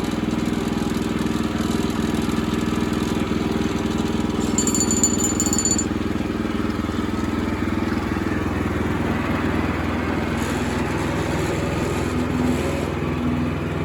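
Portable sawmill's engine running steadily, with a brief high whine about five seconds in.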